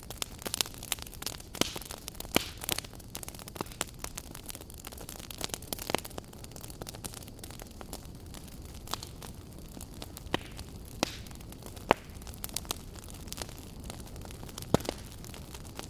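Wood fire burning in a fireplace: irregular sharp crackles and pops over a low steady rush, the loudest pop about twelve seconds in.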